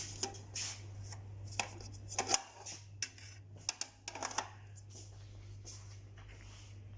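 Handling noise: a run of short, irregular clicks and rustles, busiest in the first four seconds, over a steady low hum.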